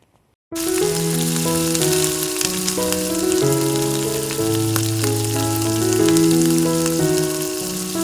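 Slow, soft keyboard background music over a steady crackling hiss. The music and the hiss start together about half a second in.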